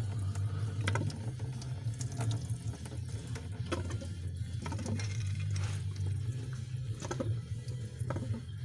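Antifreeze running out of a disconnected coolant hose at the engine's heat exchanger, with a few sharp clicks of metal tools and a steady low hum underneath.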